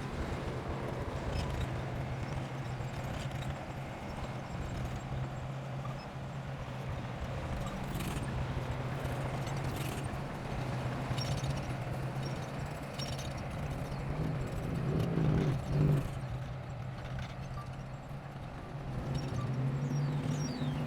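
Heavy construction machine's diesel engine running steadily, with a few sharp metal knocks and a brief surge in the engine about fifteen seconds in.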